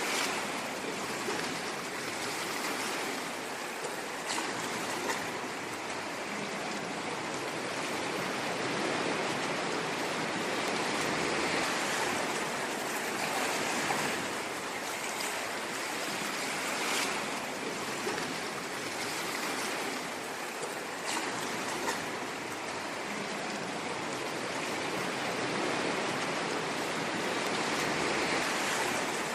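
Ocean waves washing on a shore, a continuous hiss of surf with slow gentle swells in loudness.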